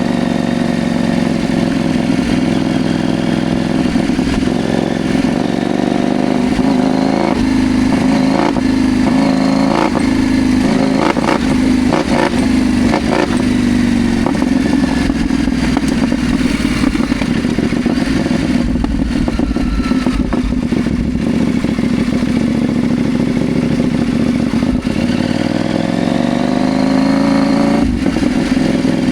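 CFMoto Ibex 800T's parallel-twin engine running steadily under way. The engine pitch drops off through the middle and rises again near the end as the bike accelerates, with a few short clattering knocks about a third of the way in.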